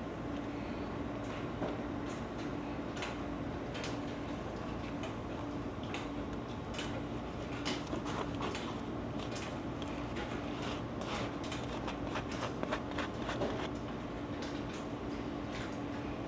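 A steady hum with many irregular small clicks and light knocks over it.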